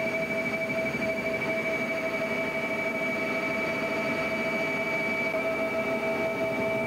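Helicopter in flight: steady engine and rotor noise with a constant high turbine whine over it.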